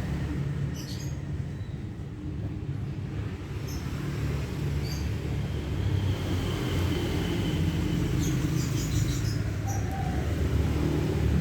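A steady low motor rumble, like a vehicle engine running, with short high bird chirps above it, several together about eight to nine seconds in.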